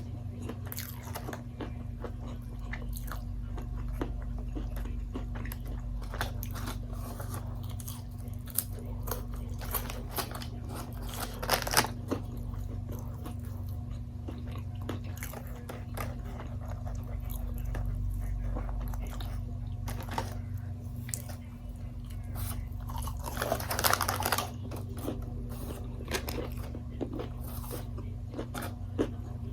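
Close-miked eating sounds: steady chewing with crisp bites and crunches, with louder bursts of crunching about 12 seconds in and again about 24 seconds in. A low steady hum runs underneath.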